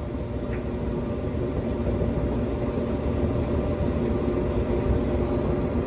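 Samsung electric dryer running on a test cycle with its freshly replaced heating element: a steady motor and drum hum, getting a little louder about two seconds in.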